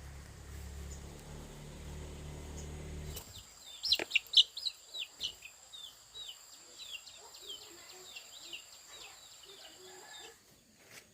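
A low steady rumble for about three seconds stops abruptly. Then chicks peep rapidly: a long run of short, high, falling peeps, loudest just after the rumble stops, with a few softer low clucks among them.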